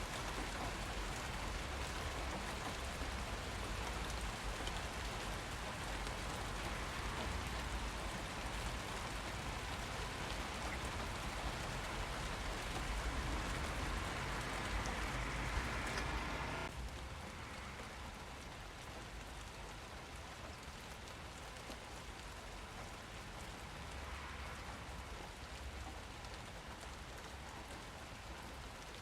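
Steady rain falling and pattering on surfaces. The loudness drops suddenly about two-thirds of the way through, then the rain carries on more softly.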